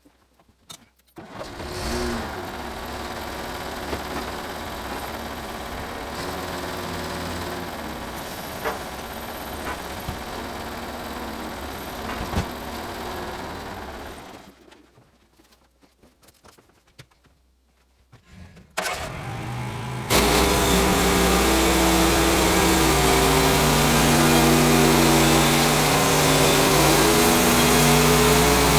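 An engine starts about a second in and runs steadily, stops about halfway through, then runs again much louder for the rest.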